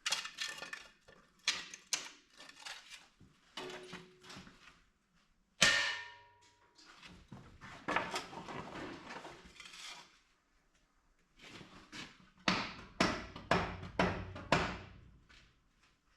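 Knocks and clatter of blocks being set against a tractor's front wheels. A sharp knock with a brief ring comes about six seconds in, and a run of about six quick strikes near the end.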